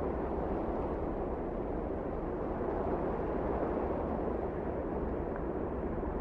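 Wind blowing steadily: a low, even rush with no gusts or breaks.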